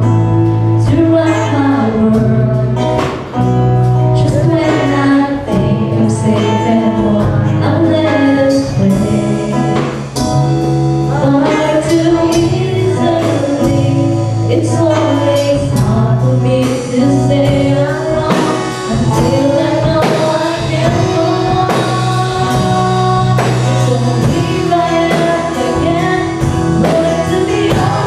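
A song being sung over instrumental backing with a steady beat.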